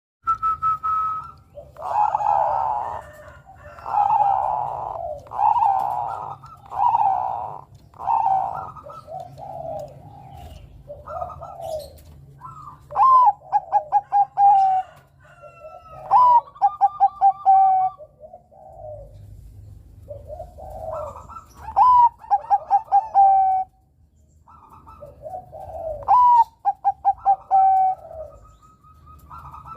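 Zebra dove (perkutut, Bangkok strain) singing. It starts with a run of soft coos about every second and a half. Then come several phrases of a rising note followed by a quick string of short staccato coos.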